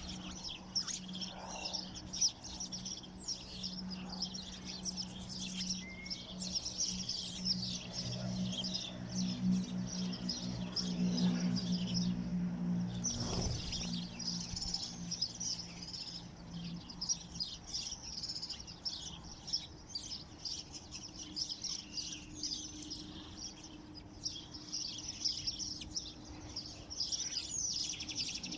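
Many small songbirds chirping and twittering together without a break. A low steady hum lies under the first half, and a single brief thud comes about halfway through.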